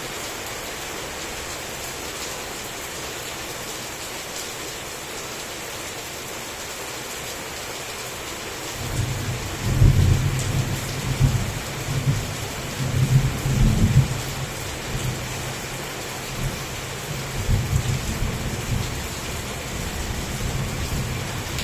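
Heavy rain falling steadily, with a long roll of thunder that rumbles in a little under halfway through, swells in several waves, then dies away with a few smaller rumbles.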